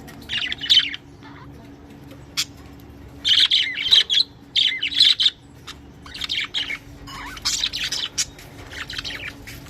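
Budgerigars chirping and chattering in bursts of quick, busy calls, with a single sharp click a couple of seconds in and a faint steady hum underneath.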